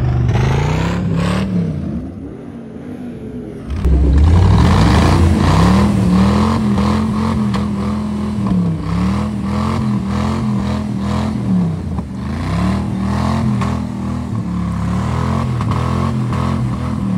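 Jeep engine revving hard in repeated surges, about one every second and a half, as the wheels spin in deep mud, with thrown mud spattering. It eases off about two seconds in, then comes back suddenly louder about four seconds in.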